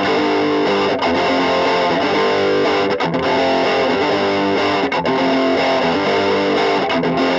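Music: a distorted electric guitar playing on its own, its chords changing about once a second.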